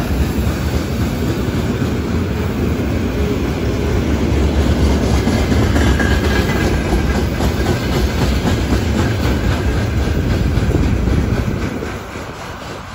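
Freight train of railway tank cars rolling past close by: a steady low rumble of wheels with repeated clatter over the rail joints. It fades near the end as the cars move away.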